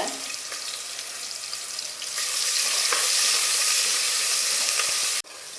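Ginger, garlic and green chillies sizzling in hot coconut oil, with a steady hiss that gets louder about two seconds in and cuts off suddenly near the end.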